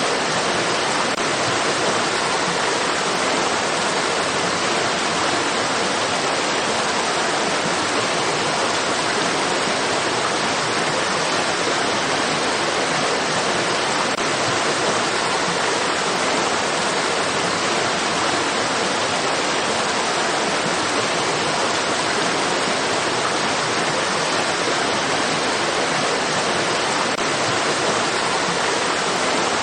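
Flowing water rushing steadily and evenly, like a stream or small waterfall, with no change in level.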